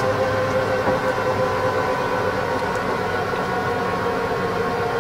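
Helicopter turbine engine and rotor running with a steady whine, its pitch sinking slightly near the end as it winds down after landing.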